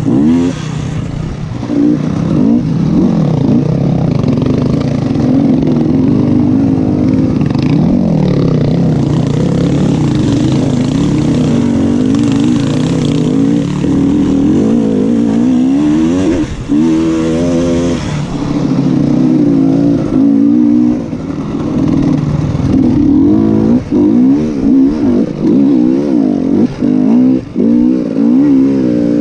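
Motocross bike engine revving hard, its pitch rising and falling over and over, with several short drops in level.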